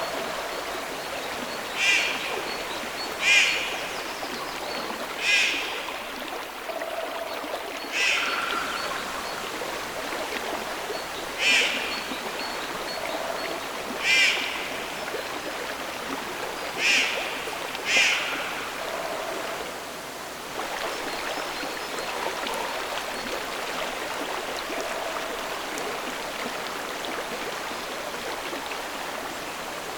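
A flowing stream, with a bird giving about eight short, loud calls over the first two thirds, irregularly spaced a second to three seconds apart. Fainter, softer calls sound in the background.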